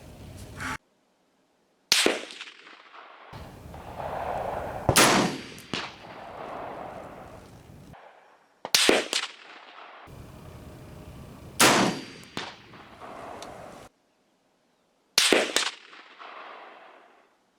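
Rifle shots at a steel target, about five, each a sharp crack followed by a trailing echo. The sound cuts out abruptly to dead silence between some of the shots.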